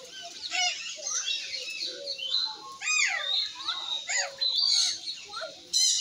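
Birds in an aviary chirping and calling: many short, overlapping tweets and whistled rising and falling notes. A louder, harsher call breaks in near the end.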